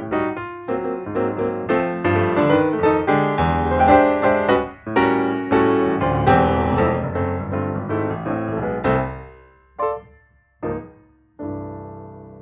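Piano music playing a busy run of notes. Near the end it breaks into two short chords, then a final chord that is left ringing and fades out.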